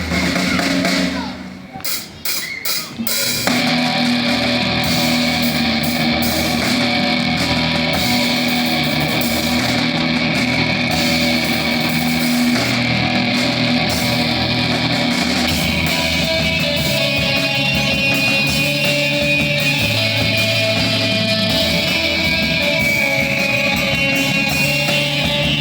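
Live noise-rock band playing with drum kit and electric guitar. After a short dip near the start, a few sharp hits lead into the full band, which then plays on loud and steady.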